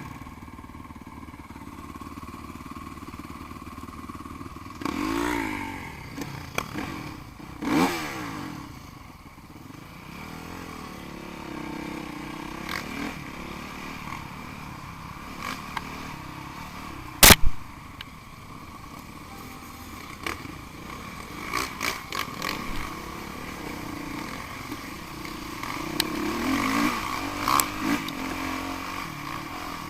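Off-road enduro motorcycles running and revving, their engine pitch rising and falling as bikes pass, over a steady engine drone. A single sharp knock about 17 seconds in is the loudest sound.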